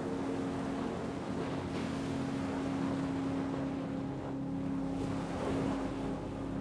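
Ocean waves washing in a steady rush of surf, under a continuous low, even hum.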